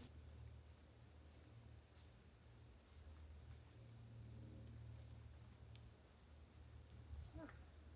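Faint, steady, high-pitched insect trill, like crickets, running unbroken over a low background rumble.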